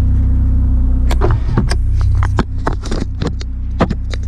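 Volkswagen Gol's engine idling, a steady low hum inside the cabin, with repeated clicks and knocks from a camera mount being handled and adjusted.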